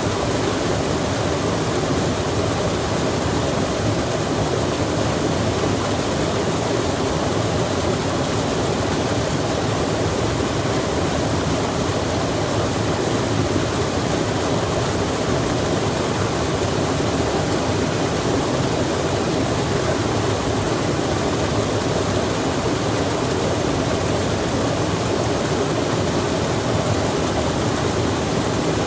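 Running water rushing steadily and evenly, with no change in level or pitch.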